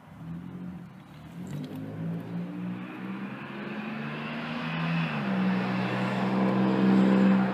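A motor vehicle's engine coming nearer and growing louder. Its note drops in pitch about five seconds in and then holds steady.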